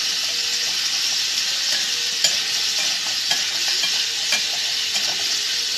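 Squash and papaya sizzling as they sauté in oil in a stainless steel wok while being stirred, with the utensil knocking and scraping against the pan a few times.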